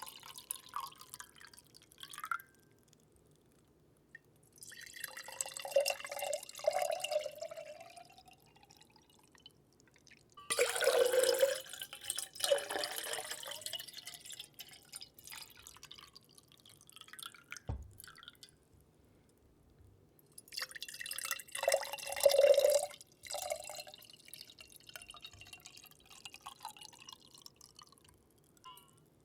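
Water dripping and splashing close to the microphone, in three louder bouts of trickling with quieter dripping between them.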